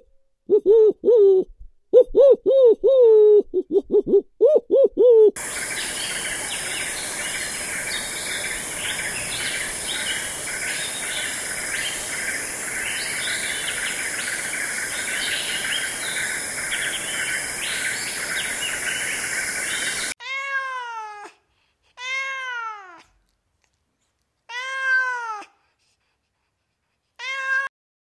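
A run of animal calls. First come short, quick pitched calls. After about five seconds a dense, steady chorus of high chirping takes over for about fifteen seconds. It ends with four separate drawn-out calls, each about a second long, that rise and then fall in pitch.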